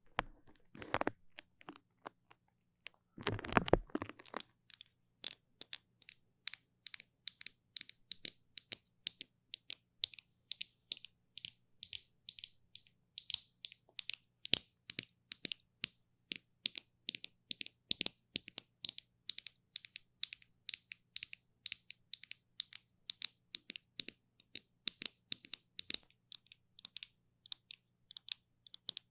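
Close-miked sticky ASMR sounds: quick, crackly clicks of something tacky being pressed and pulled apart, about two to three a second, with a short, denser crackle about three seconds in.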